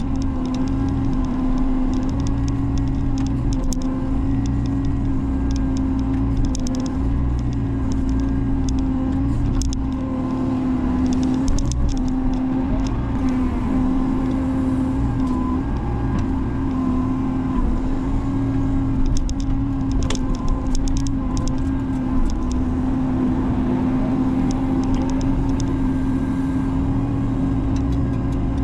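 Diesel engine of a Menzi Muck spider excavator running steadily under hydraulic working load, with scattered light clicks and knocks throughout.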